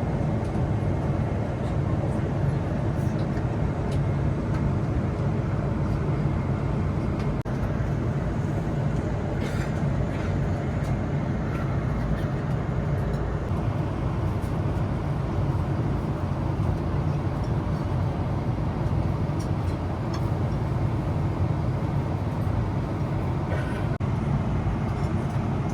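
Steady roar of a Boeing 777-300ER's cabin in cruise flight, engine and airflow noise heavy in the low end, with a couple of faint clicks.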